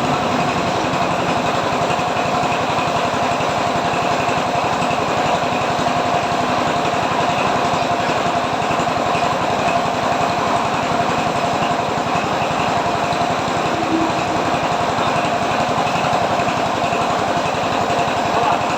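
An engine running steadily at an even speed, with a fast regular pulse and a steady hum throughout.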